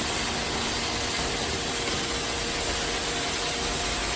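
iRobot Roomba Combo robot vacuum running, its suction motor and brushes making a steady whir with a faint constant whine as it cleans the floor.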